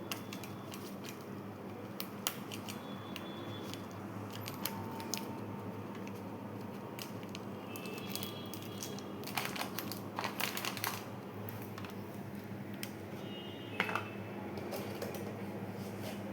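Scattered light clicks and clinks of a spoon and containers as spices are added to raw chicken, several with a brief ringing tone, over a steady low hum.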